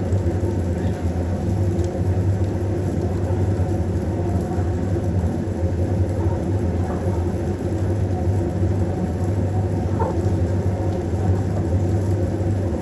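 A steady low rumble with a hum, unbroken throughout.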